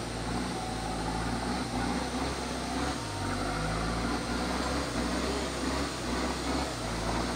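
Off-road 4x4 vehicle engine running steadily, its low note shifting slightly in pitch about three seconds in.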